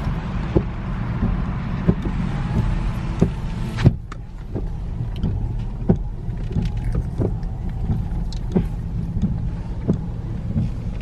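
Low steady rumble of a car creeping along, heard from inside the cabin. About four seconds in, a power window runs up and shuts with a knock, cutting off the outside hiss of the rain; scattered light taps follow.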